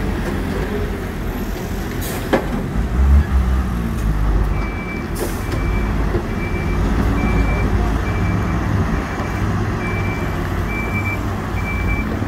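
Hidromek 102S backhoe loader's diesel engine running under work, with a sharp knock and then a heavy thump a couple of seconds in. From about four and a half seconds in, a reversing alarm beeps steadily about twice a second, with a short hiss near its start.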